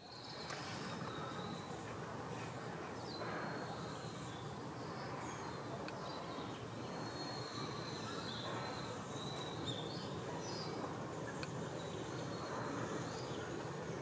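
Small birds giving short high chirps and brief twittering calls every second or so, over a steady outdoor background hiss, with a few faint ticks.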